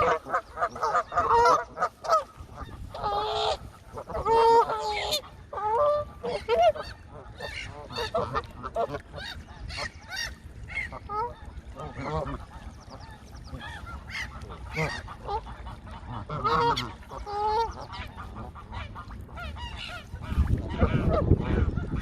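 Geese honking: many short, harsh calls from several birds, overlapping and irregular. A low rumble comes in near the end.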